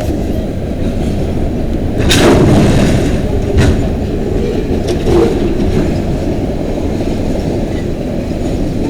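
Freight cars of a CN mixed freight train rolling past, a steady rumble of steel wheels on the rails. A few louder clanks or squeals come about two, three and a half, and five seconds in.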